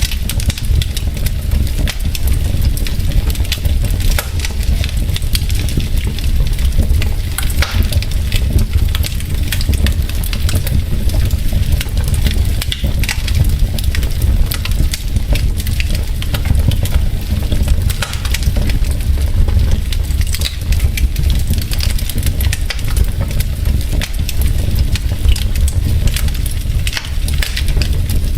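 Wood fire burning in a fireplace: logs crackling and popping in a dense, irregular stream of sharp snaps over a steady low rumble of the flames.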